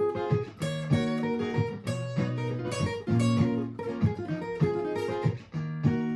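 Martin GPCPA4 acoustic-electric guitar played through a looper pedal: a repeating strummed and picked chord pattern, about every two seconds, with picked notes over it.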